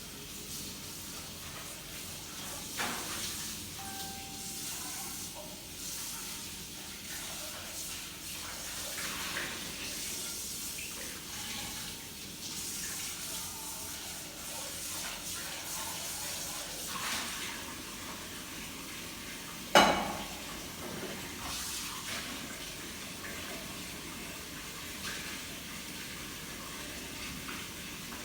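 Running water, a steady rushing hiss. A single sharp knock cuts in about twenty seconds in.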